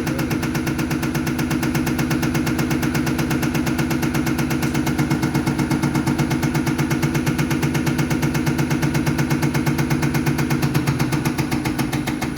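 Diesel injection pump test bench running a Bosch 0414799005 Mercedes Actros unit pump through its measuring cycle: a steady mechanical hum with an even pulse of about five beats a second, growing more distinct partway through.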